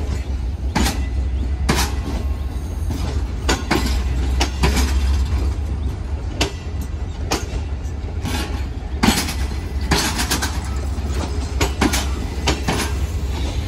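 Railway passenger coaches rolling slowly on the track: a steady low rumble with irregular clanks and clicks from the wheels and couplings.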